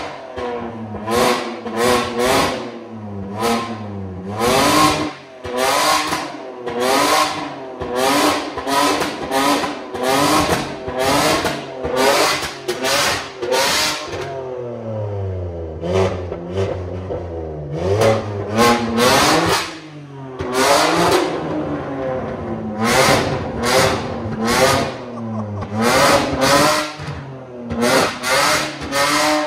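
BMW G87 M2's twin-turbo inline-six being revved hard while parked, in quick repeated blips of about one to two a second, with a slower fall and rise in revs midway.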